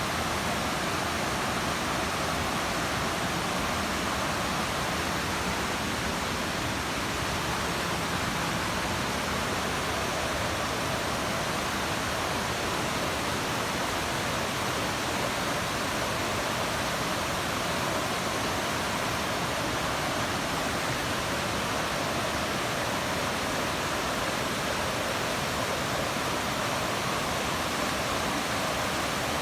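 Steady, unchanging rush of flowing water.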